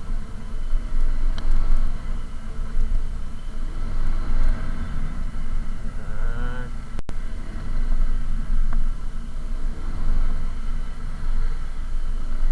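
A vehicle driving along a city boulevard: steady low rumble of engine and road noise. About six seconds in, a brief wavering tone is heard.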